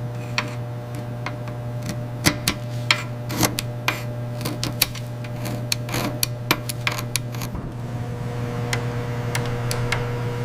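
A steady low machine hum with a few sharp, irregular clicks and taps over it. The clicks are thickest in the middle seconds and grow sparse near the end, while a higher steady tone joins the hum.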